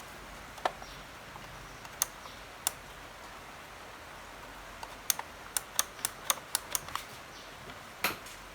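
Sharp mechanical clicks as the radio's switches and controls are worked: a few scattered ones, then a quick run of about ten in two seconds, and one louder click near the end. No sound comes from the radio itself.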